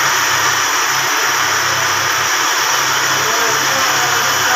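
Grinding machine running steadily in an engine machine shop, working on the camshaft of a Toyota 5L engine head: a continuous hiss with a low hum under it.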